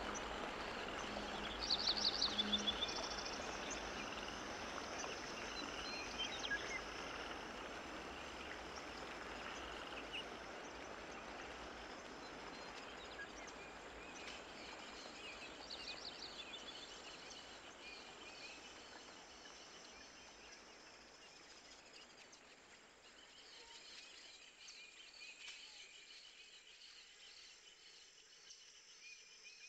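Faint, steady background noise that slowly fades, with a few short, rapid, high-pitched chirps near the start and about halfway through.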